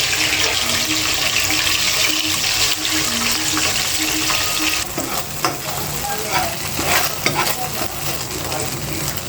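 Kitchen sounds: a steady hiss that cuts off abruptly about five seconds in, then a utensil scraping and clicking against a pan as food is stirred.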